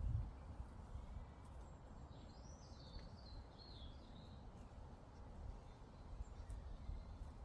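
Faint meadow ambience: a low, steady wind rumble, with one short warbling songbird phrase about two seconds in that lasts a second and a half.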